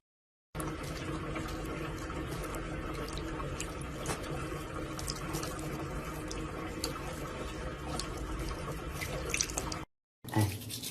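Water running steadily from a tap, with small scattered ticks and splashes.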